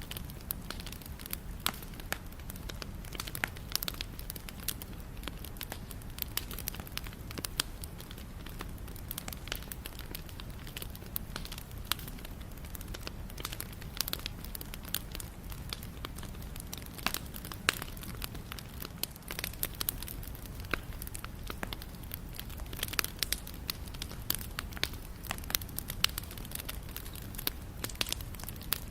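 Wood bonfire crackling: frequent, irregular sharp pops and snaps over a steady low rumble.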